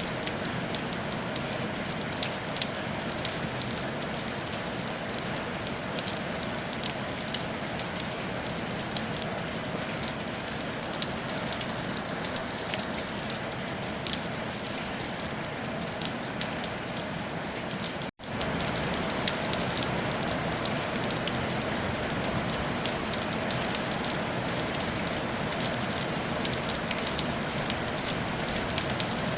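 Steady rain on a tile roof: a constant hiss thick with the patter of single drops. It cuts out for a split second about two-thirds of the way through, then carries on a little louder.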